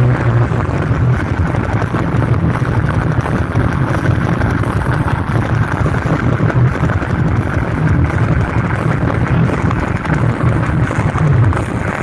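Loud festival sound system ('sound balap') playing bass-heavy music, with the booming bass the strongest part and the rest a dense blur on the microphone.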